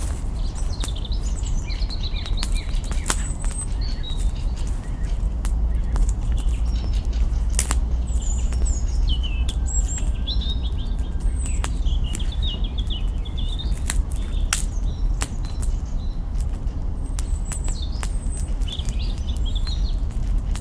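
Campfire crackling, with scattered sharp pops from burning branches, over a steady low rumble, while small birds chirp and twitter in short phrases.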